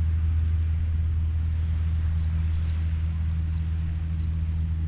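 A steady low engine hum runs under faint surf hiss, with a few short high chirps between about two and four seconds in.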